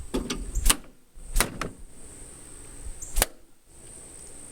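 Swatting at a red wasp: three sharp swishing strikes, about 0.7, 1.4 and 3 seconds in, over a faint steady high whine.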